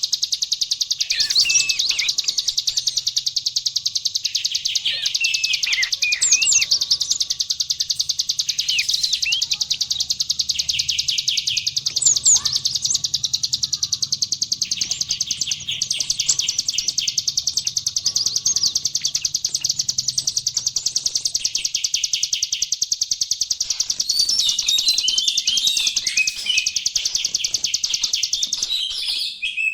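A mix of recorded small songbirds for training cage birds: a continuous rapid, high trill with sharp, sliding whistled notes over it. Near the end the song changes to a busier, jumbled run of notes.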